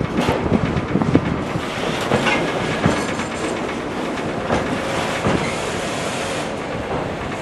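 Freight train wagons rolling past, the wheels knocking irregularly over rail joints above a continuous rumble, with more knocks in the first second or so.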